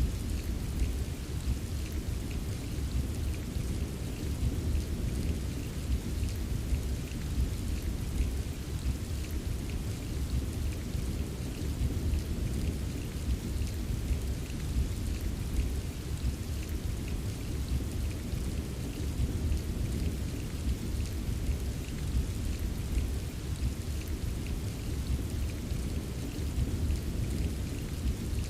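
Recorded rain ambience: a steady hiss of heavy rain with the patter of drops and a constant deep rumble underneath.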